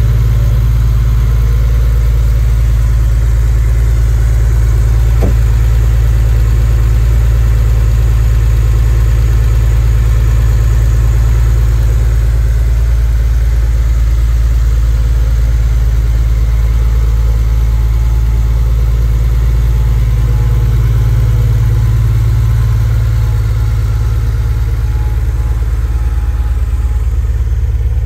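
1995 Porsche 993 Carrera 2 Cabriolet's air-cooled 3.6-litre flat-six idling steadily on its exhaust, still ice cold from a cold start in freezing weather. It gets a little fainter near the end.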